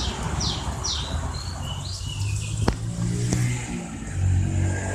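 A bird chirping three quick falling notes, then a few shorter chirps, over a low engine-like rumble; from about halfway a steady low mechanical hum comes in, with one sharp click in the middle.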